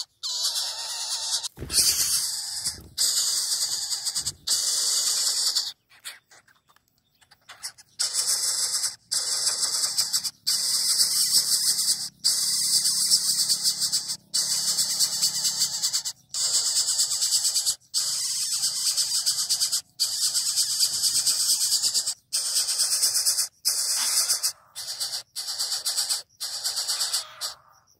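Coucal chick begging for food with a continuous high, hissing squeal. It breaks off abruptly many times, with a longer pause about six seconds in.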